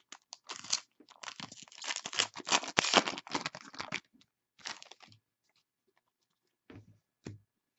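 Crinkling and rustling of trading-card packaging and plastic as cards are handled, dense and crackly for the first few seconds, then a few light clicks and soft knocks.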